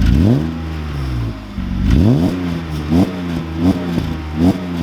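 BMW E36 engine revved by hand while parked, through an exhaust the owner thinks too quiet for an E36: two fuller revs, then three quick throttle blips, each falling back toward idle.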